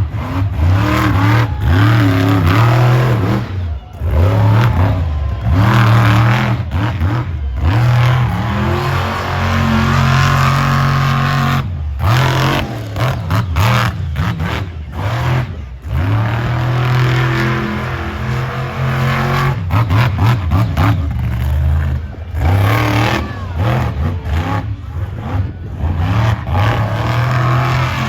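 Monster truck engine revving hard and repeatedly, its pitch climbing and falling, with the throttle cut back briefly several times.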